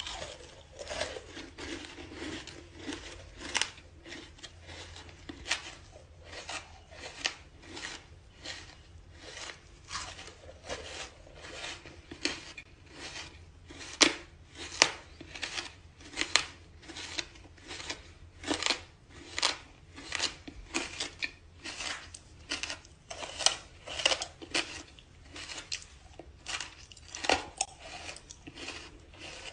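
Close-miked crunching of dry dirt being bitten and chewed: a steady series of sharp, crackly crunches, roughly one to two a second.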